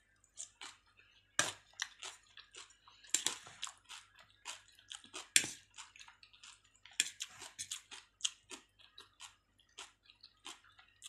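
Close-up chewing and lip-smacking of a mouthful of stewed chicken and potato, a quick run of small wet clicks, with a few sharper clicks and taps now and then.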